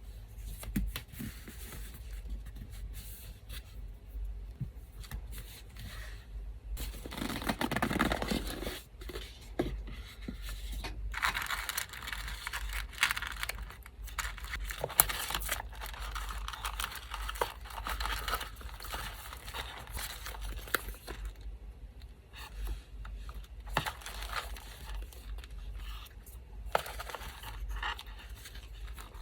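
Small pieces of paper being torn, rustled and handled, with scattered light clicks and taps and a longer spell of tearing about a third of the way in. The faint steady hum of an electric fan runs underneath.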